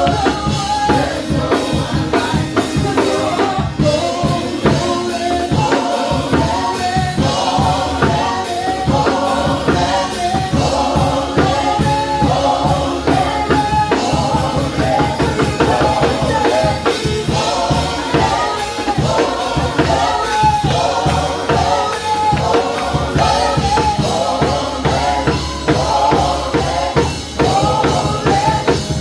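Worship band playing with a drum kit keeping a steady beat, with singing over it.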